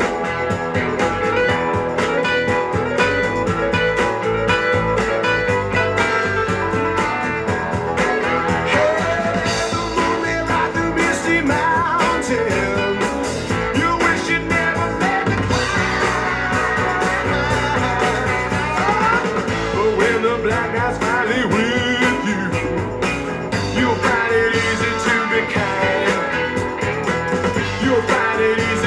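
Blues-rock music with guitar, played back through Wharfedale EVO 4.2 loudspeakers.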